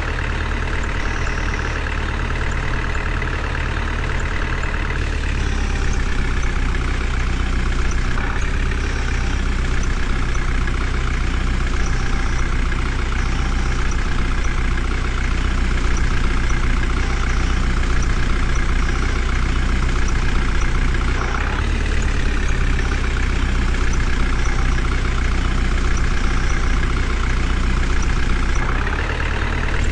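Heavy diesel engine running steadily, its tone shifting several times as the revs or load change.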